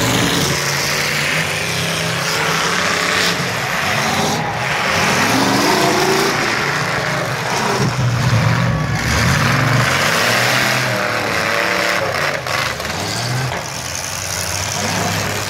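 Several demolition derby cars' engines running and revving, the pitch rising and falling as they drive, with a few sharp bangs.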